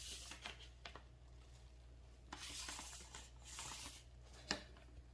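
Plastic air-conditioner accessory parts being handled: faint rustling of packaging with a few light clicks and knocks, the sharpest about four and a half seconds in.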